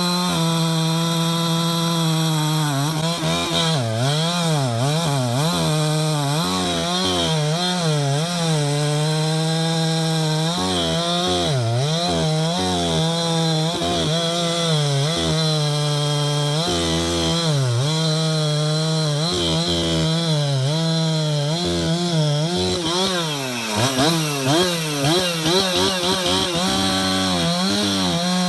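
Husqvarna 372XP two-stroke chainsaw running at high revs while bucking wood, its engine pitch repeatedly sagging and recovering as the chain bites into the cut.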